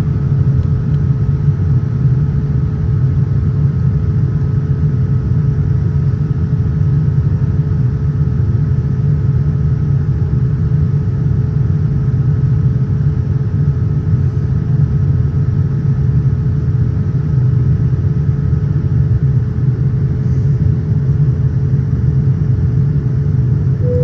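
Steady low roar of an airliner cabin in flight, with a faint constant hum tone over the rumble.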